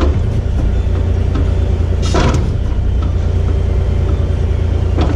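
Kubota 040 excavator's diesel engine running steadily under hydraulic load while the swivel bucket is worked at a reduced auxiliary flow setting, with a brief rushing noise about two seconds in.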